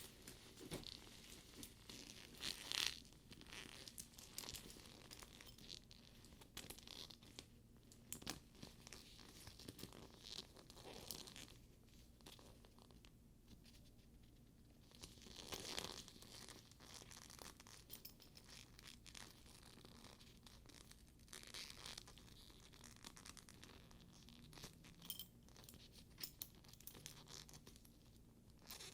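Quiet handling of a studded faux-leather purse's buckles and straps: soft rustles, sticky leather peeling away from the surface, and scattered light clicks and taps of metal hardware.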